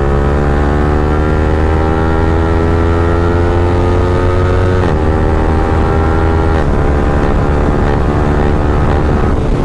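Yamaha R15M's 155 cc single-cylinder engine running loud through an Akrapovic free-flow exhaust while riding. The engine note climbs slowly, breaks briefly about five seconds in and again a second and a half later as gears are shifted, then holds steady.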